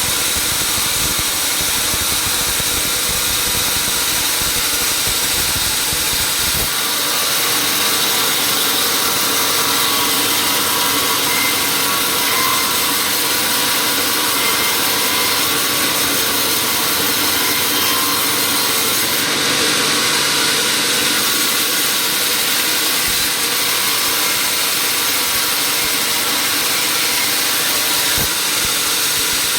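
Sawmill saw machinery running steadily and cutting wood, a dense, even machine noise with a steady hum; the deep rumble drops away about seven seconds in.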